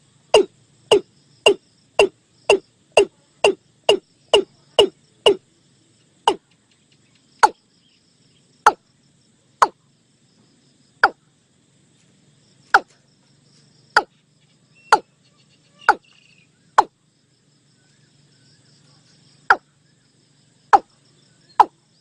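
A bird the uploader calls 'nok i-klung' calling in a series of loud, sharp notes, each dropping quickly in pitch. The notes come about twice a second at first, then slow to single notes a second or more apart, with a pause of a few seconds before they speed up again near the end. This is a clear, fast call sequence of the kind played as a decoy.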